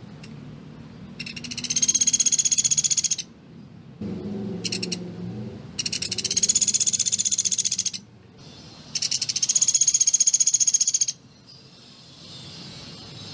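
Pelatuk beras songbird singing rapid, tightly packed high trills: three long bursts of about two seconds each and one short burst, with brief pauses between them.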